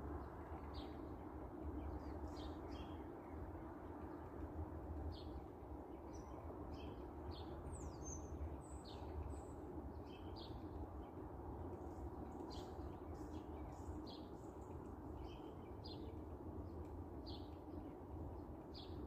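Small birds chirping outdoors: short, high calls about once a second, with one falling call about eight seconds in, over a steady low background rumble.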